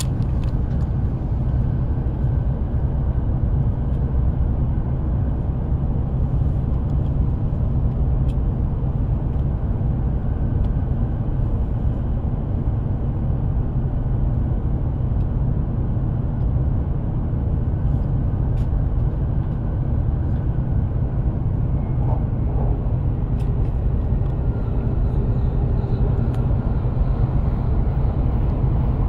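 E7-series Hokuriku Shinkansen train running, heard from inside the car: a steady low rumble of running noise with a few faint clicks.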